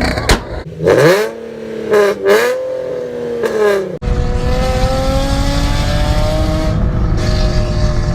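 A car engine revving in quick blips, its pitch jumping up and falling back several times. After a sudden cut, a car accelerates hard, the engine note climbing slowly under a loud rush of wind and road noise, then stops abruptly near the end.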